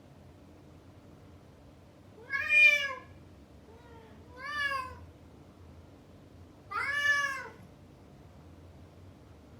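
Male cat meowing three times, about two seconds apart, each a long call that rises and falls in pitch, the first the loudest; he has been shut behind a closed door, away from the female cat he was chasing.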